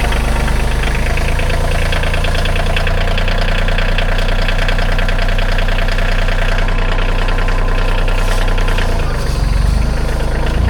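A vehicle's engine running steadily while hauling a chained tree out of a pond, its note shifting briefly near the end.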